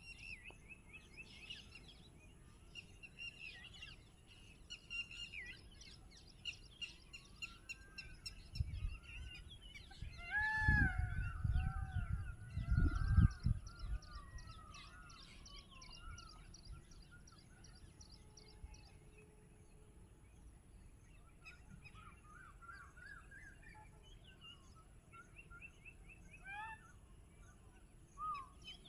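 Several wild birds calling together: fast repeated high chirps and trills, with lower arched call notes about halfway through and again near the end. A few loud low rumbles come about ten to thirteen seconds in.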